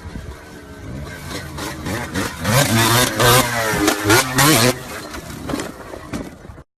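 Motorcycle engine revving: the pitch climbs, then comes a run of loud, hard revs, and it falls back before cutting off suddenly near the end.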